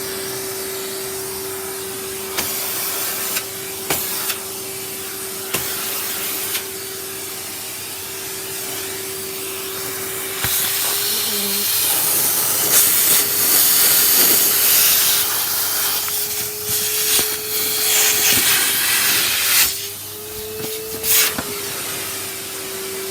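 Numatic Henry cylinder vacuum cleaner running with a steady motor whine under the rushing hiss of suction. The hiss grows louder and rougher through the middle as the nozzle works over surfaces. The whine's pitch rises briefly a couple of times as the airflow is choked, with a few light knocks of the nozzle.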